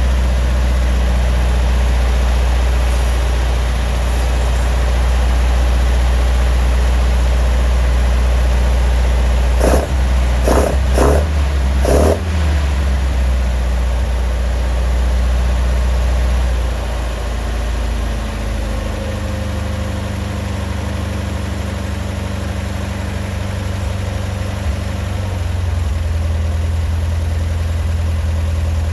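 Datsun Bluebird 411's J-type four-cylinder engine, running on a copy Weber carburettor on an MGB intake manifold, idling steadily. About ten seconds in, the throttle is blipped three times in quick succession and the revs fall back to idle.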